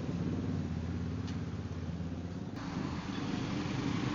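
A vehicle engine running steadily at low revs, with an abrupt cut to a different recording about two and a half seconds in.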